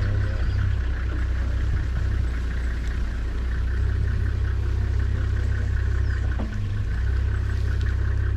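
Safari Jeep's engine idling steadily, a low even hum.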